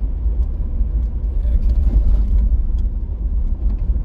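Steady low rumble of a car being driven, heard from inside the cabin, with a few faint small ticks over it.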